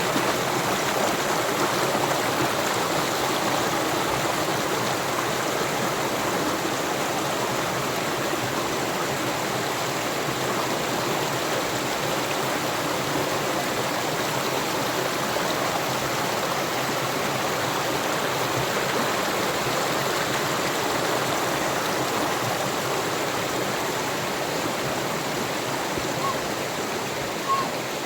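A waterfall's steady rush of falling water, an even hiss with no change in level, with one brief small tick near the end.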